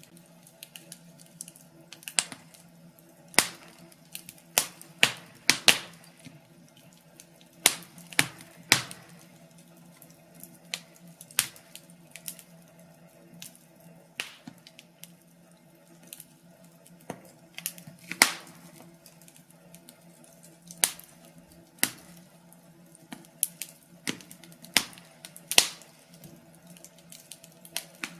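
Wood fire in a fireplace crackling, with sharp irregular pops about one or two a second over a faint steady low hum.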